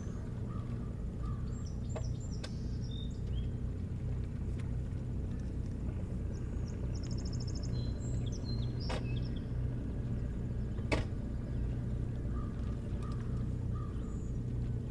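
Small birds calling in short high chirps, with a rapid high trill about seven to nine seconds in, over a steady low rumble. A few sharp clicks cut through, the loudest about eleven seconds in.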